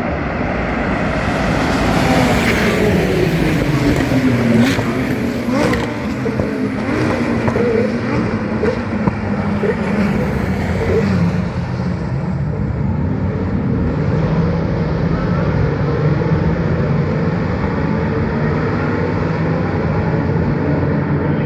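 GT racing cars passing at speed, several one after another, their engine notes sliding down and up in pitch as they go by.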